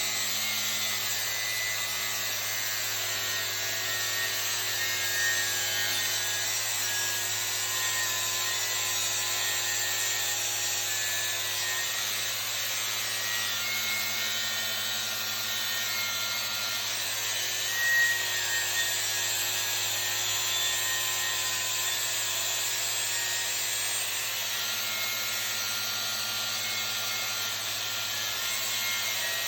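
Angle grinder grinding a weld bevel into the edge of a workpiece that a welding positioner slowly turns, a steady grinding noise with a steady low hum under it. A brief louder scrape comes about eighteen seconds in.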